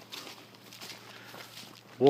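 Faint footsteps on a dirt trail, a person walking with uneven soft steps.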